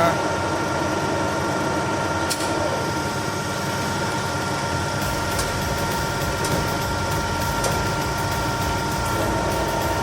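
1M63 heavy engine lathe running under power, a steady machine hum with a thin whine held at one pitch and a few light clicks.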